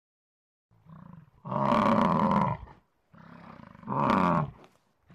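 Two loud animal roars about two seconds apart, each led in by a quieter low growl.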